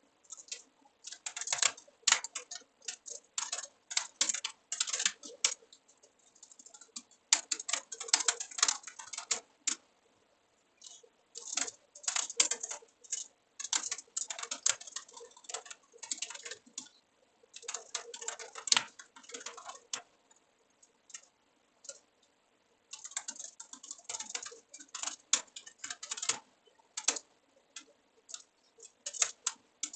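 Typing on a computer keyboard: rapid key clicks in bursts of a few seconds, broken by short pauses, with a longer lull of scattered single clicks a little past the middle.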